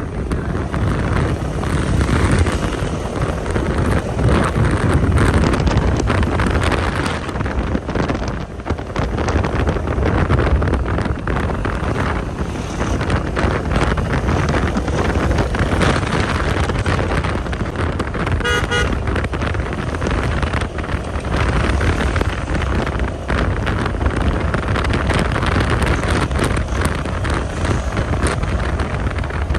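A motor vehicle on the move with wind buffeting the microphone, giving a steady rumble and rush. A short horn toot about two-thirds of the way in.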